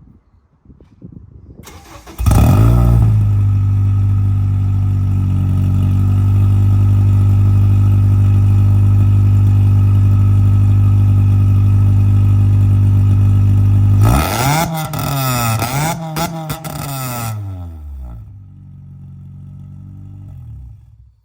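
Car engine cold-started with a loud exhaust: it cranks briefly, catches about two seconds in and runs at a steady, loud high idle. Later it is revved up and down about three times, settles to a quieter idle, and cuts off abruptly near the end.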